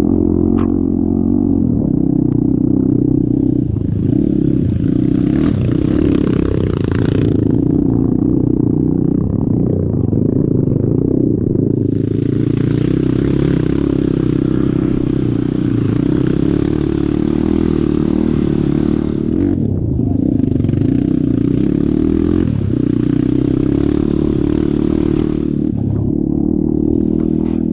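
Off-road vehicle's engine running steadily under load, joined three times by a long rushing hiss: once from about three seconds in, then a longer stretch from about twelve seconds in, and another soon after it.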